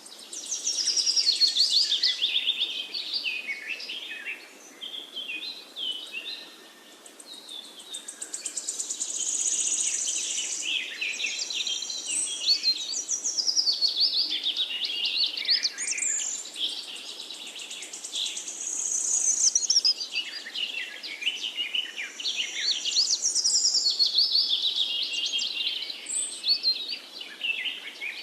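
Songbirds singing, a dense chorus of overlapping quick chirps, trills and whistled glides, loud in some phrases and softer between them.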